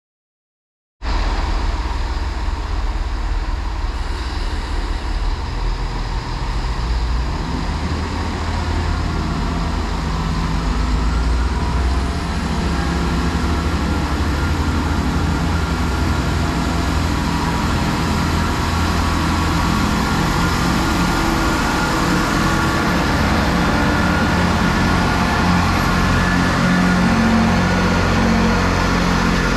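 A diesel train engine running steadily with a low hum and a few steady higher tones, starting about a second in and slowly getting louder.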